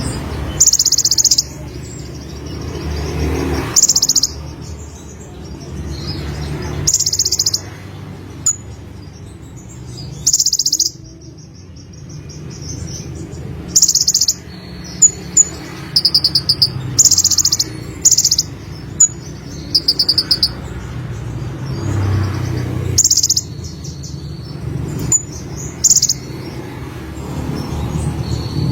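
Konin sunbird singing: short, very high trilled phrases repeated every two to three seconds, with quick sharp chips between them, over a low steady background rumble.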